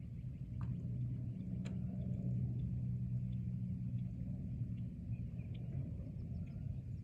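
Outdoor forest ambience: a steady low rumble with a low droning hum that swells about a second in and fades again near the end, faint high chirps, and a few sharp ticks.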